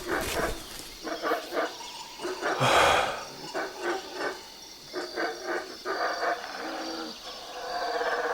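Animal calls in a jungle soundscape: a run of short, repeated calls, with one louder cry about three seconds in, over faint steady high-pitched insect or bird tones.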